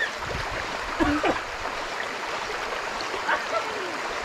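Shallow creek water flowing steadily over rocks, an even rushing sound, with short voice calls about a second in and again past three seconds.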